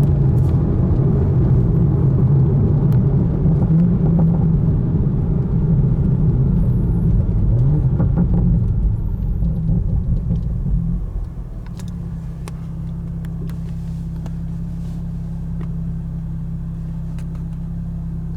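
2020 Toyota Supra's B58 turbocharged inline-six running through a Borla ATAK exhaust in sport mode. A loud, uneven rumble lasts about eleven seconds, then drops to a quieter, steady idle.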